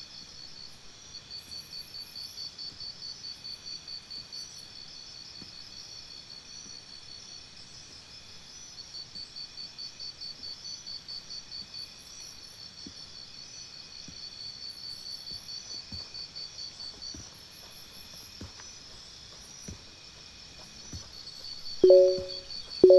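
Crickets chirping steadily: a high pulsed trill, about five pulses a second, that swells and fades in long runs. Near the end a few short low two-tone beeps sound, about a second apart, louder than the crickets.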